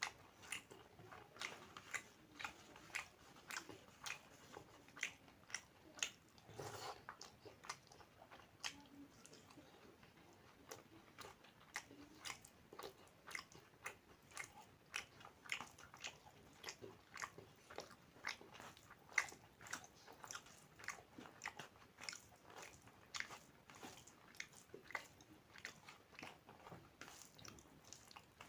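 A person chewing food with crisp crunching, a steady run of short clicks at roughly two a second.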